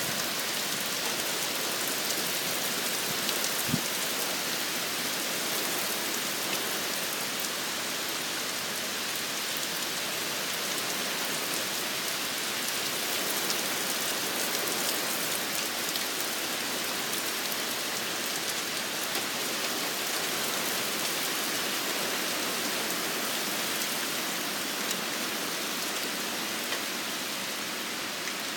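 Torrential typhoon rain pouring down steadily, a record-breaking short-duration downpour.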